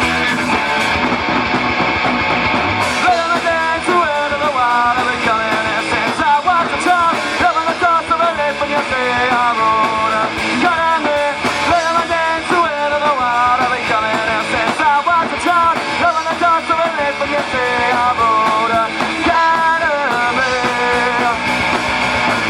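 Live rock band playing an instrumental passage with guitars. A melodic lead line of quick, bending notes comes in about three seconds in and runs over the band.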